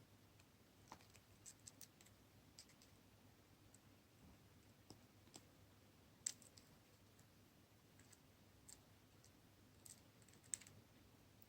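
Faint, scattered clicks of round nose pliers and a wire head pin as a loop is bent in the pin; otherwise near silence.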